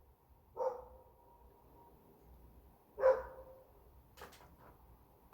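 Two short dog-like barks or yips, about two and a half seconds apart, the second louder.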